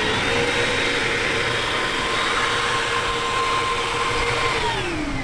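Engines of a large radio-controlled model jet running with a steady high whine over a rushing exhaust noise; the whine drops in pitch near the end as the power comes back.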